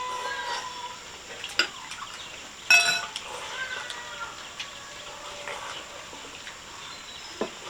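Dishes clinking during a meal: a few light clicks and one louder ringing clink of a bowl or chopsticks about three seconds in, with faint animal calls behind.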